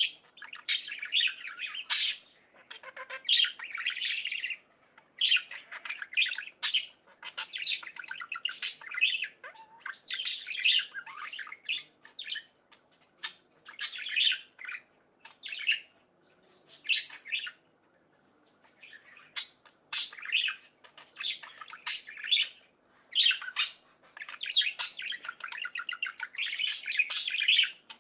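Budgerigars (parakeets) chirping, chattering and squawking in quick, busy bouts, with short pauses between them.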